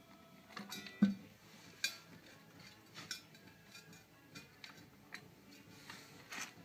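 Scattered light clinks and knocks, like metal parts being handled, with one louder thump about a second in.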